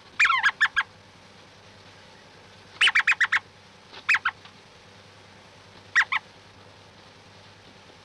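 A bird calling in four short bouts of quick notes that fall in pitch, over a faint steady hiss. The bouts come near the start and at about three, four and six seconds in.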